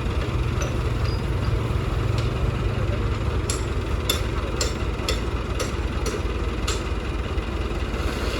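Heavy diesel earthmoving machinery running with a steady low rumble. A series of sharp clicks, about two a second, comes through the middle.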